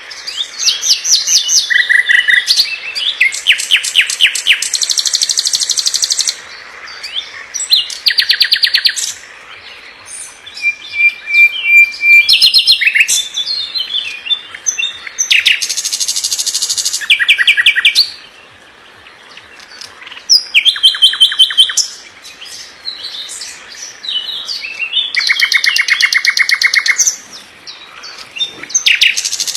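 Nightingale singing: phrases of fast, tightly repeated notes and trills, each a second or a few seconds long, separated by short pauses.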